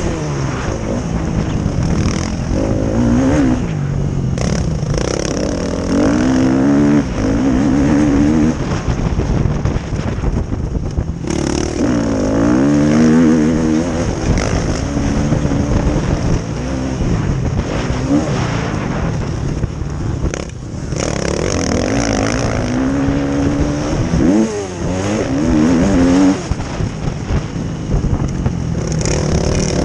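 Motocross bikes racing, engines revving up and falling back again and again as the riders accelerate, shift and brake around the track.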